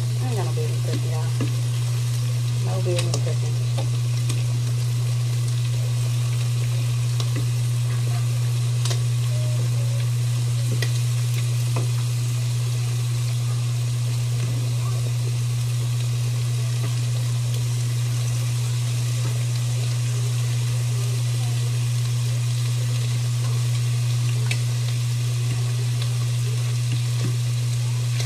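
Food frying in a pan with a steady sizzle, over a steady low hum, with a few faint ticks.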